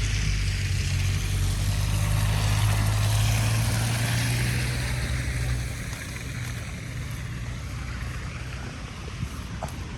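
A motor vehicle going by on the street: a steady low engine hum with road noise, loudest about three seconds in and dropping away after about six seconds.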